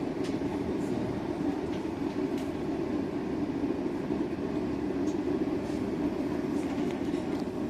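Steady noise inside a Docklands Light Railway train carriage, heard from among the passengers.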